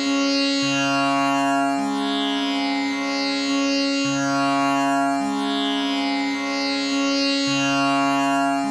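Tanpura drone tuned to C# as Sa, its strings plucked in a slow repeating cycle. The fifth (G#) and the low Sa alternate over a constant middle Sa, and the bridge buzz makes the overtones shimmer and sweep.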